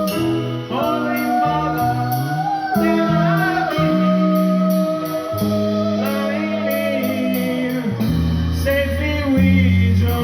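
Live band playing a song: electric guitar and bass over a steady drum beat, with a singing voice.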